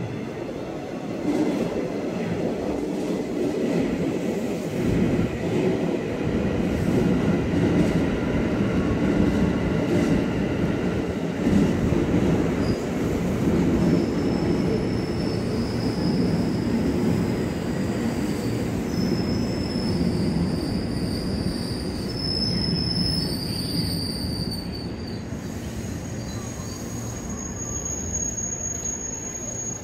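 KRL Commuter Line electric multiple unit pulling into the platform and slowing to a stop, its wheels rumbling over the rails. Several high squeals come in over the middle to later part as it brakes, and near the end, as it comes to rest, a thin steady high whine remains.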